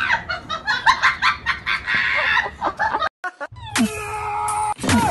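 Domestic cat chattering in a quick run of short chirping calls for about three seconds. It is cut off by a brief gap, then a different stretch with steady tones and a couple of falling glides.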